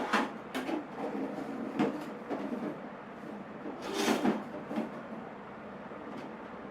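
A damaged old aluminium toolbox being handled: a series of separate sharp knocks and light clattering, the loudest cluster about four seconds in.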